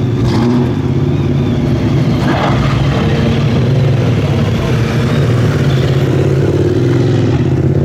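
Muscle car's V8 engine running steadily, its exhaust note holding a fairly even low pitch.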